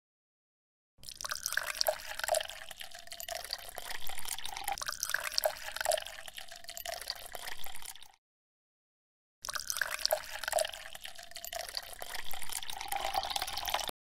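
Water pouring and trickling in a thin stream, in two stretches with a short break of silence between them.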